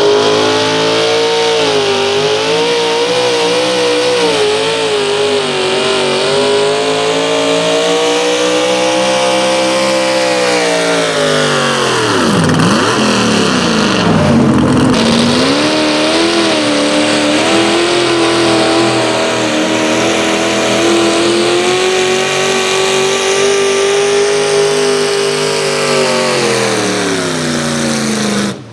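Engine of a pulling tractor or truck running hard at high revs, its pitch wavering up and down. About twelve seconds in the revs drop sharply and then climb back.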